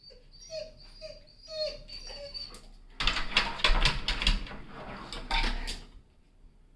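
Dog whimpering in a few short, high whining notes, followed about three seconds in by a loud burst of rustling and knocks lasting about three seconds.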